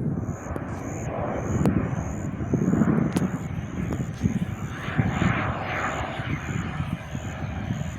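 Aircraft engine noise, a rushing sound that swells about five seconds in, with wind buffeting the microphone.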